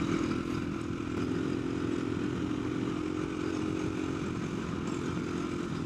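Dirt bike engine running at a steady, even speed while riding, easing off slightly near the end.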